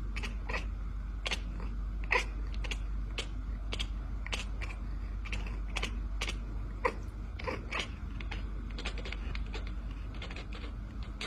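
A run of short, sharp clicks or taps at an uneven pace of about two or three a second, over a steady low hum.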